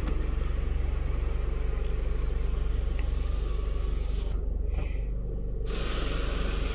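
Mercedes B-Class W245 diesel engine idling steadily just after being started, a low, even rumble.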